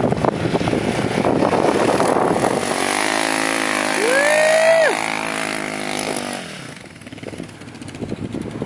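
Dual-sport motorcycle engine revving hard as the rider goes up a sand hill. Its pitch climbs steeply about four seconds in, holds, then drops sharply as the throttle is shut, and the engine fades away near the end. Rough wind-like noise comes before it.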